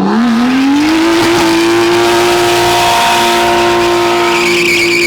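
A car engine revs up over the first second, then holds at high revs while the tires spin in a donut. A high, steady tire squeal comes in near the end.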